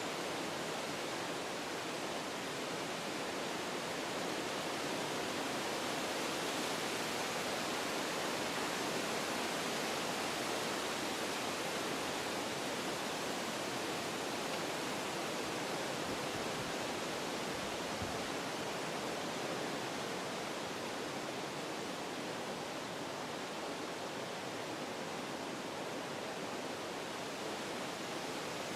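Wind blowing through forest trees: a steady rushing of leaves and branches that swells slightly and then eases off.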